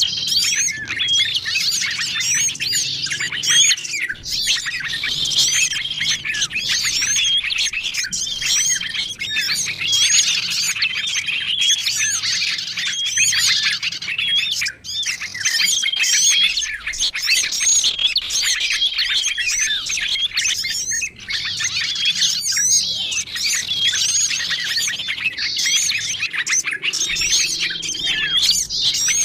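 A dense chorus of many small songbirds chirping and calling over one another, with a short level whistle repeating every second or two: a mixed-species bird-lure recording made to draw in small wild birds such as sunbirds, prinias and tailorbirds.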